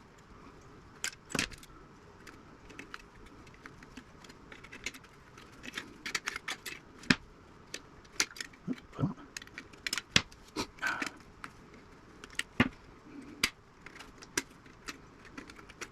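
Irregular metallic clicks and clinks of hand tools and small steel and brass parts as a vintage radio's tuner assembly is taken apart and its wiring cut out.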